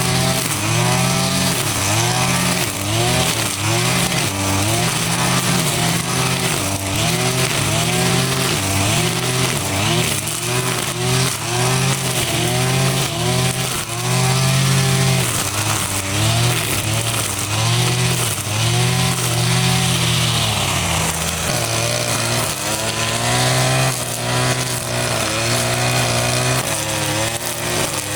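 A small petrol engine running under changing load, its pitch rising and falling over and over, about once a second.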